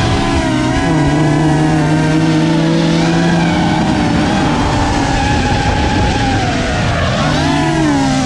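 Nissan Z drift car's V6 engine held at high revs through a long slide, its pitch steady for several seconds and then rising and falling near the end as the throttle is worked.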